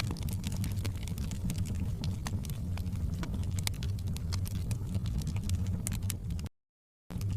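Wood fire burning in a fireplace: irregular crackles and pops over a low steady rumble. The sound cuts out completely for about half a second near the end, then resumes.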